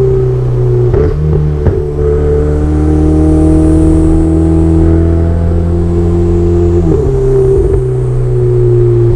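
Ferrari 488 Spider's twin-turbo V8 running under way at moderate revs, its pitch drifting slowly. The note breaks briefly about a second in, again just under two seconds in, and around seven seconds in, each time settling at a new pitch as the gearbox shifts.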